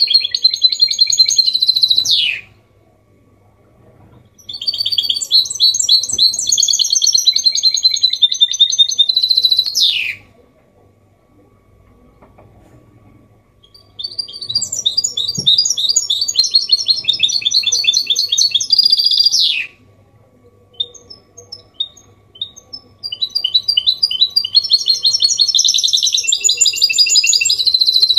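Goldfinch mule (hybrid goldfinch) singing a copia Málaga-style song: long phrases of fast, high twittering trills, each several seconds long and ending in a quick falling slur, with pauses of a few seconds between them and a few single chirps in one pause.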